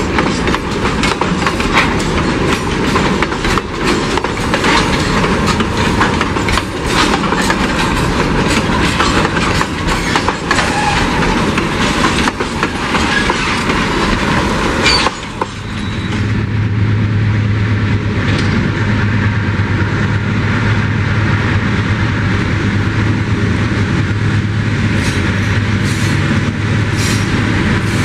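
Empty curtain-sided freight wagons rolling past close by, their wheels clicking over rail joints with a steady rumble. About halfway through this cuts off, giving way to the steady low drone of approaching GE C30-7 diesel-electric locomotives.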